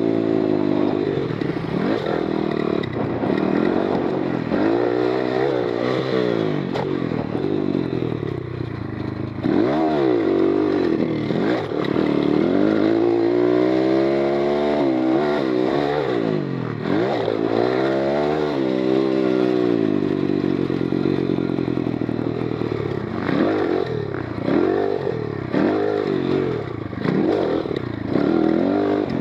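Oil-cooled 140cc GIO X33 pit bike engine being ridden hard around a motocross track, revving up and down over and over as the throttle is opened and shut, with a couple of longer, drawn-out climbs in pitch near the middle.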